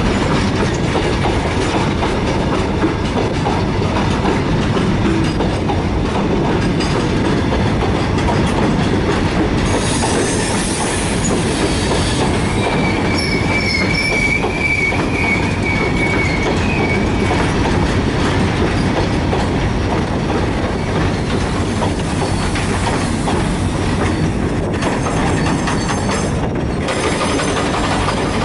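Open-top freight wagons rolling past close by, their wheels clattering steadily over the rails. About twelve seconds in, a wheel squeals against the rail for about five seconds.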